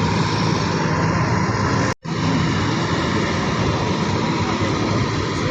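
Farm tractor engine running hard under load as it pulls the weight sled, a steady, loud drone. The sound cuts out for a split second about two seconds in, then carries on unchanged.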